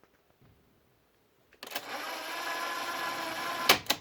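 SHARP 5P-37G cassette recorder's tape mechanism whirring steadily for about two seconds, as in fast-winding a tape, then a loud clunk of a piano-key control near the end.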